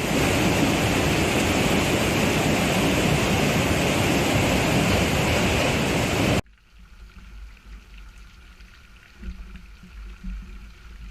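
Loud, steady rushing of floodwater, which cuts off abruptly about six seconds in, leaving a much quieter low rumble with a few faint sounds.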